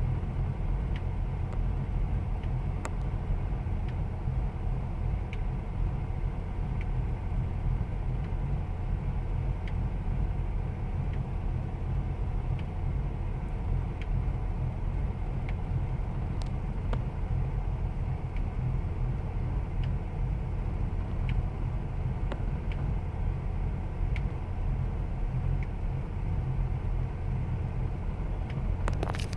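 2000 Ford Expedition's 5.4-litre V8 idling with a steady low rumble, the rough idle the owner is investigating. A few sharp clicks come right at the end.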